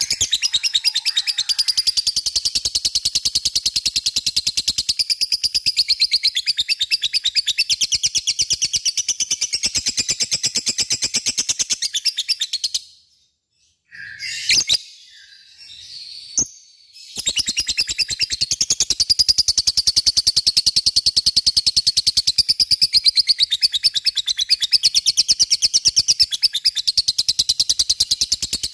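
Lovebird giving its long 'ngekek' song: a rapid, high-pitched chattering trill of evenly repeated notes. About halfway through it breaks off for a few seconds, with a couple of single chirps, then the trill starts again and runs on.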